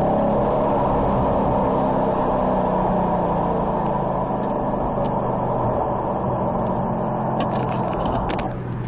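Car engine heard from inside the cabin, its pitch easing down early on and then holding a steady low drone over road noise. Near the end the rushing noise drops away, leaving the low engine note.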